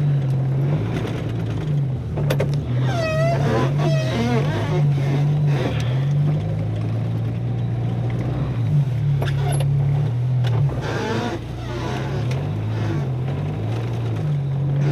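Jeep Wrangler engine running under load in four-wheel-drive low range while working through deep snow, its pitch rising and falling repeatedly with the throttle. A brief wavering higher sound comes about three seconds in.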